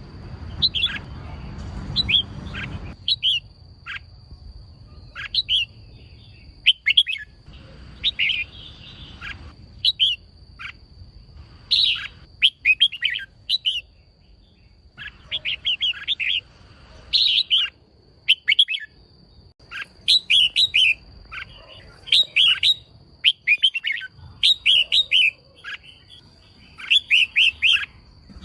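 Female red-whiskered bulbul calling: short bursts of quick, high chirping notes every second or two, some running into rapid strings of several notes, over a faint steady high-pitched tone.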